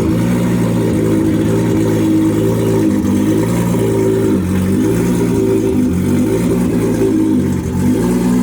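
Drift car engine running at fairly low revs, its pitch dipping and rising again several times.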